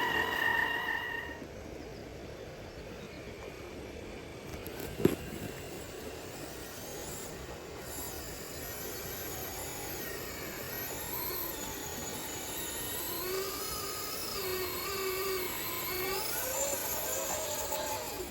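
Electric motor of an RC scale crawler whining, its pitch rising and falling with the throttle, with a single sharp click about five seconds in.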